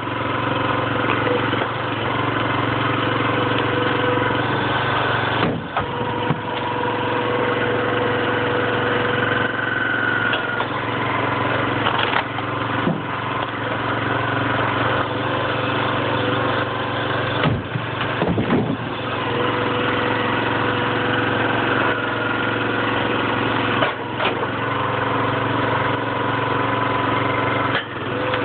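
Huskee 22-ton log splitter's gas engine running steadily, its tone shifting now and then as the hydraulic pump takes load. Several knocks and cracks of red oak splitting and pieces dropping come through, with a cluster about two-thirds of the way in.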